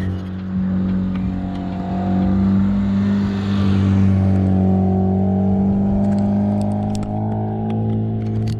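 Car engine running steadily with a low, even hum, rising slightly in pitch a couple of times, with a few light clicks near the end.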